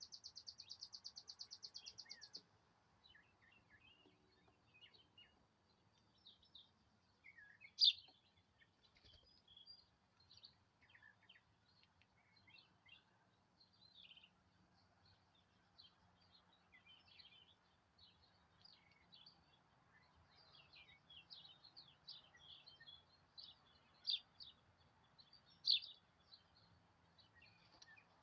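Small birds chirping and twittering, faint, in many short high calls, with a rapid trill for the first two seconds and a few louder single chirps around 8 seconds in and near the end.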